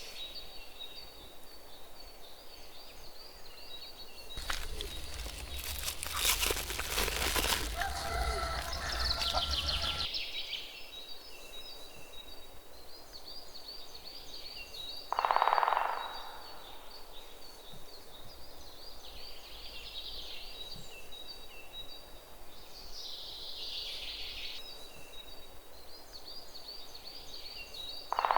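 Outdoor ambience of birds and insects chirring steadily, with a few seconds of louder rustling noise early on and two short, loud calls about halfway through and at the end.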